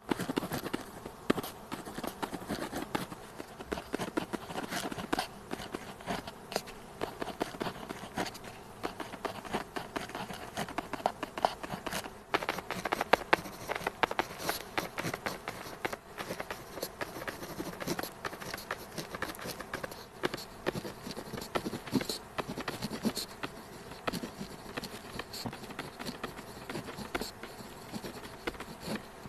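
Pen tip writing on paper: a dense run of quick scratches and small taps as the strokes go on.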